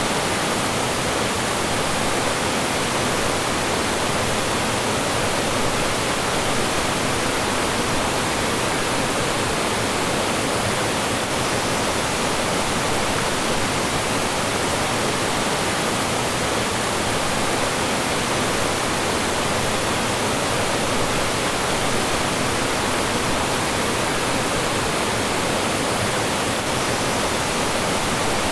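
Mountain stream rushing over rocks and small falls, a steady full wash of water sound with no change in level.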